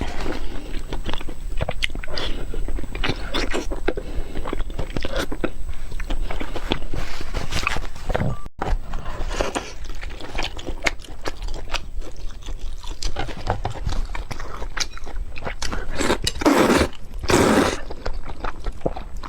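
Close-miked eating: a person biting and chewing food, with many short wet clicks and crunches. Two longer, louder sounds come near the end.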